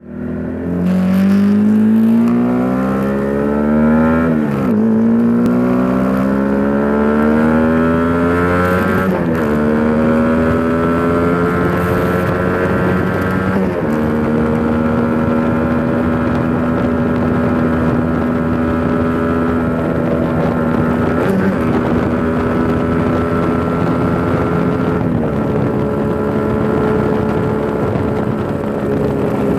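Single-cylinder engine of an old Honda CB150R running through an aftermarket R9 exhaust. The note climbs in pitch and drops back sharply three times, then holds a steady, higher note with a couple of brief dips.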